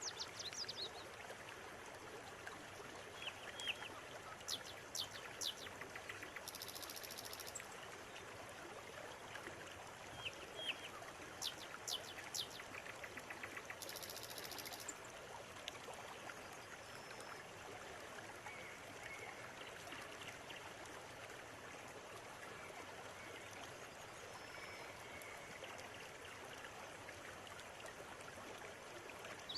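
River water running steadily, with small birds calling over it: quick sharp high chirps in two clusters, two short high buzzy trills, and softer whistled notes in the second half.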